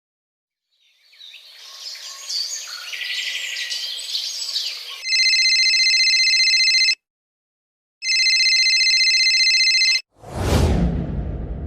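A string of separate sound effects: birds chirping over a noisy background, then an electronic telephone ring sounding twice, each ring about two seconds long, then a sudden boom that sweeps down from a hiss into a low rumble and fades.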